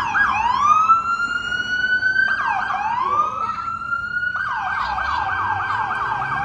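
Emergency vehicle's electronic siren sounding loud and close, alternating a slow rising wail that climbs and holds with a fast yelp: the wail runs twice, and about two-thirds of the way through it switches to rapid yelping.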